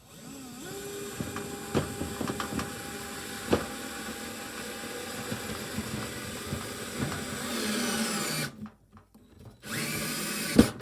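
Cordless power drill driving a wood screw through an alarm control panel into the wall: the motor runs steadily for about eight seconds with a few sharp clicks, speeds up just before it stops, then gives a short second burst near the end that finishes with a click as the screw seats.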